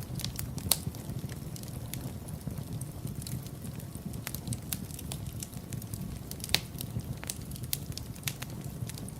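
Fireplace fire crackling: irregular sharp pops and ticks over a low, steady rumble of the flames, with two louder pops, one under a second in and one about two-thirds of the way through.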